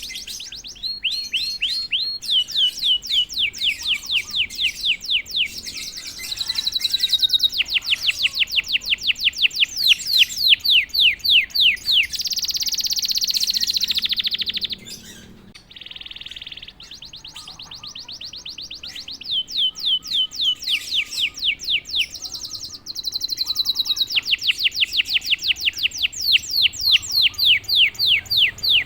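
Domestic canary singing: long rapid trills of repeated downward-sweeping notes, broken by a few held steady whistles and a quieter lull about halfway through.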